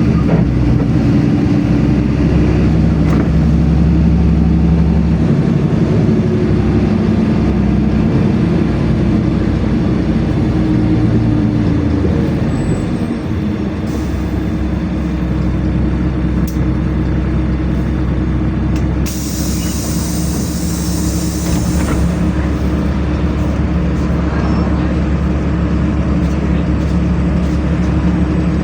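LiAZ-5292 city bus heard from inside while riding: a steady engine and drivetrain drone that settles to a lower note about halfway through. Later a hiss of compressed air lasts about three seconds.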